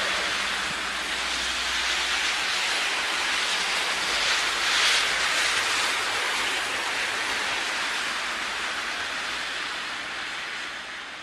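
A steady rushing noise that swells about five seconds in and then slowly fades.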